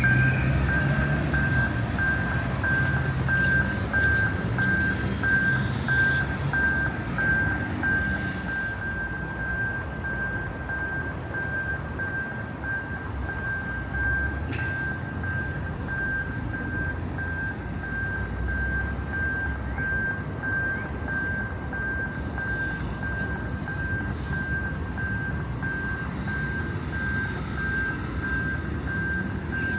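Electronic railway level-crossing warning signal beeping evenly at one high pitch, over the steady noise of road traffic.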